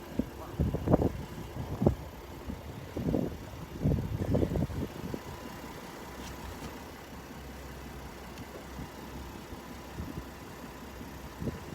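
A truck engine idling steadily at a low, even level. In the first five seconds there are several short, irregular knocks or bumps over the idle.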